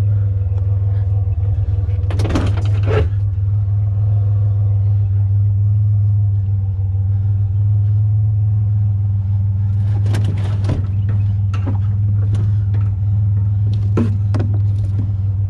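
A vehicle engine idling with a steady low hum. Short knocks and rattles of refrigerator parts being handled come about two seconds in and several more times in the last third.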